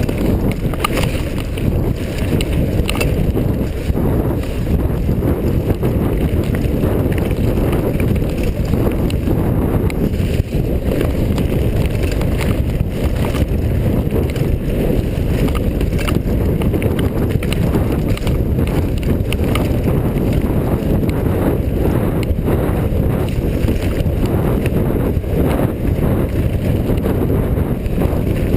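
Wind buffeting a helmet- or bike-mounted action camera's microphone as a mountain bike rides a trail. Frequent short knocks and rattles come from the bike over rough ground.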